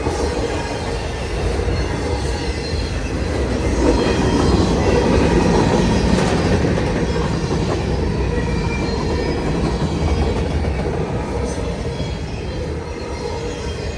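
Freight train cars rolling past on steel rails, a continuous noise of wheels on track with faint squealing, a little louder about four to seven seconds in.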